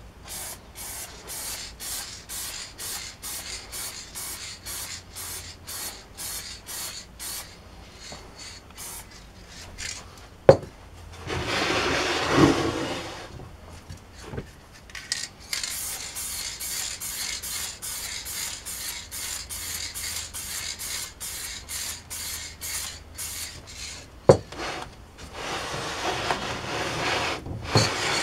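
Hand rubbing down an electric motor's casing in quick back-and-forth strokes, about two to three a second. Two sharp knocks are heard, and there are two longer, louder stretches of continuous rubbing.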